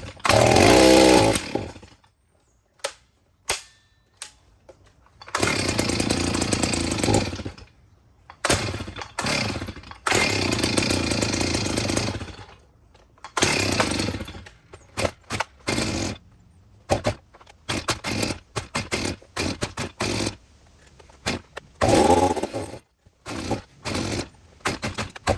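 Stihl 039 two-stroke chainsaw being pull-started: it fires and runs for a second or two at a time, then dies, between short, sharp pulls and sputters. It is struggling to keep running, which the owner blames on a failing carburetor.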